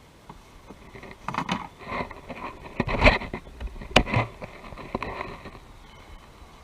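Scraping and rustling handling noises for a few seconds, with two sharp knocks about a second apart.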